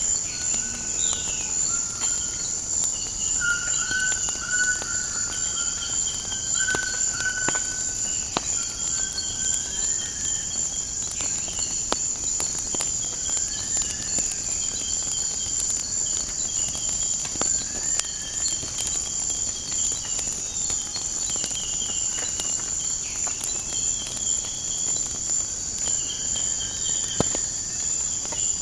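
Steady, high insect trilling like crickets, with short bird calls repeating throughout and scattered sharp crackles of a wood fire.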